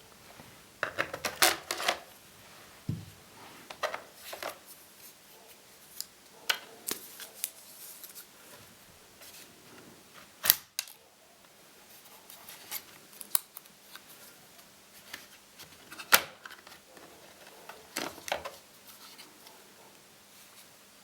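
Irregular small clicks, taps and light scrapes of plastic and metal laptop parts being handled with a small screwdriver while the hard drive is taken out of an Acer Aspire 5732ZG. The two sharpest clicks come about ten and sixteen seconds in.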